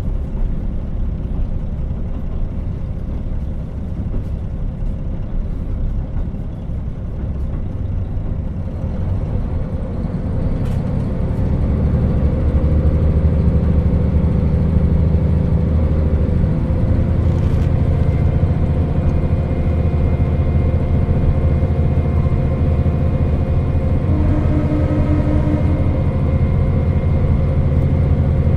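KiHa 40 diesel railcar running on the line with a steady rumble of wheels on track. About eleven seconds in, the diesel engine comes up under power, and its drone grows louder and holds steady.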